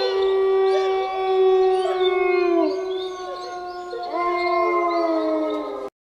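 Wolf howling: a long, steady howl that slides down in pitch near the end, then a second howl starting about four seconds in, which stops abruptly just before the end.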